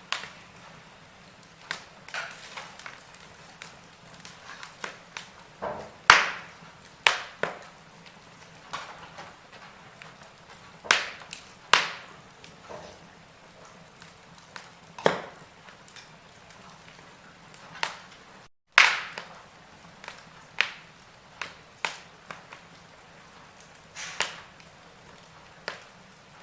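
Wood fire crackling in a fireplace: irregular sharp pops and snaps, a handful much louder than the rest, over a faint steady hiss.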